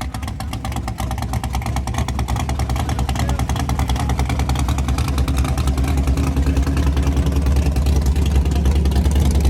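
Chevrolet Malibu's engine running with a rapid, even pulsing that grows gradually louder.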